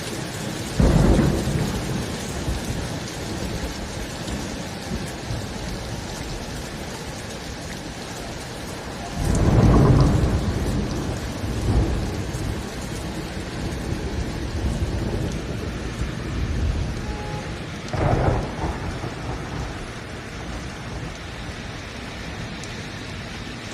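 Steady rain falling, with several peals of thunder: a sharp one about a second in, a longer rumble near the middle, another about three-quarters of the way through, and one starting at the very end.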